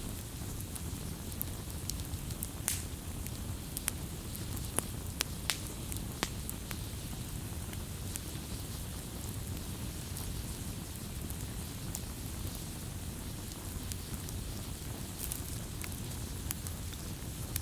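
Wood fire crackling, with sharp irregular pops and snaps over a steady low rush of the flames.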